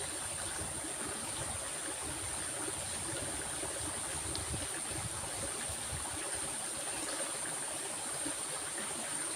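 A stream running steadily over rocks, an even rushing and babbling of water, with a steady high-pitched hiss running through it.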